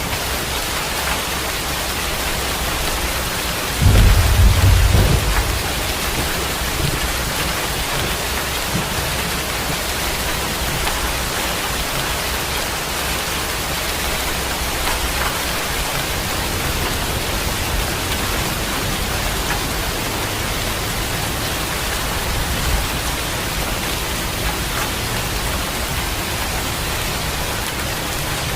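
Steady heavy rain hissing, with a sudden loud crack-and-rumble of thunder about four seconds in that fades within a couple of seconds, and a fainter, longer rumble of thunder later on.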